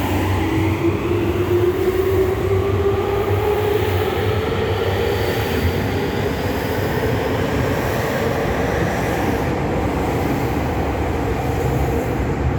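Tokyu 5050 series electric train pulling away: its inverter-driven traction motors whine, rising steadily in pitch over the first several seconds and then fading, over a steady rumble of the cars on the rails.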